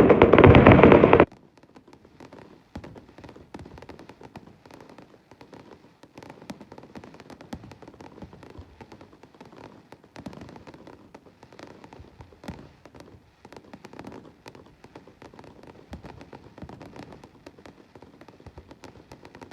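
Fireworks: a loud burst for about the first second cuts off suddenly, then many faint, rapid crackles and pops of fireworks continue.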